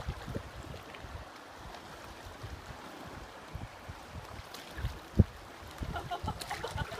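Steady outdoor rush of wind and water, with irregular low thumps of wind buffeting the microphone, the strongest about five seconds in.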